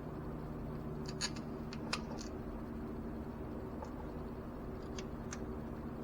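A few light clicks and taps of small metal parts and tools being handled, over a steady low hum.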